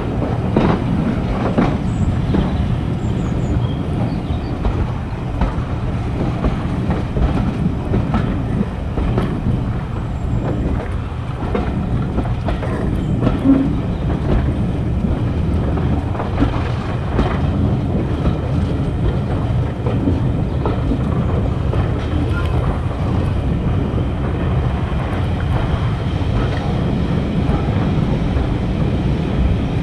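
Train running along the track: a steady low rumble with scattered clicks and knocks from the wheels.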